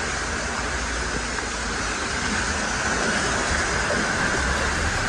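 Steady rushing hiss of a high-pressure washer spraying water, with a low machine drone underneath.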